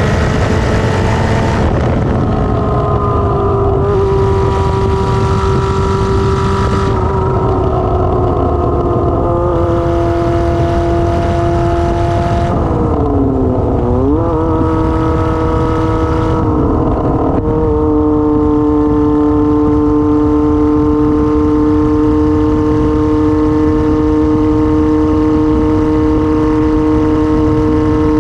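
A 1999 Kawasaki ZR-7's air-cooled inline-four runs loud with no exhaust muffler while being ridden. The engine note steps in pitch several times, dips and climbs back about halfway through, then holds steady for the last ten seconds over a constant low rush.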